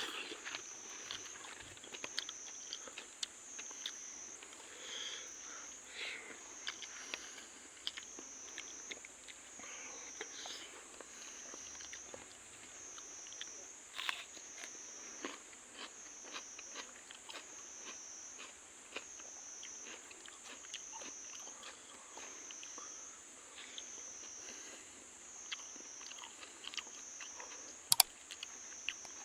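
Close-up chewing and crunching of fried magur (walking catfish) and rice, with many short crackles and clicks. Behind it an insect chorus keeps up a steady high pulsing drone, swelling and fading about once a second.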